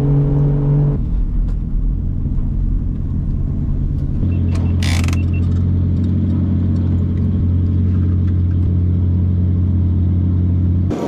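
Rented drift car's engine running at held revs, its pitch shifting to new levels about a second in, again at two seconds and around four seconds, with a brief hiss a little before five seconds.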